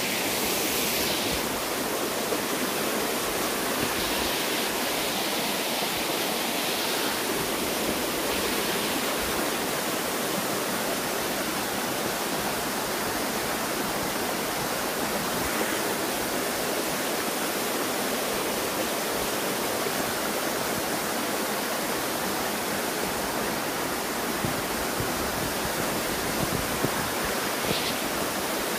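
Small waterfall: water pouring and splashing over rocks in a steady, even rush.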